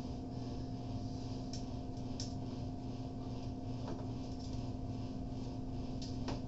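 Steady electrical hum with a high hiss that pulses at an even rate, broken by a few light clicks.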